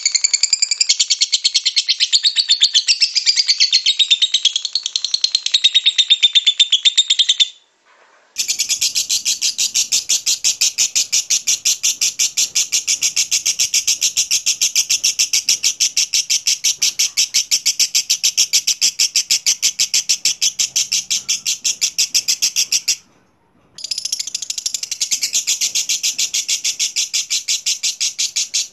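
Lovebird singing: varied high chirping and warbling for the first several seconds, then long runs of rapid, evenly repeated chattering trill (the 'ngekek'), broken by two short pauses.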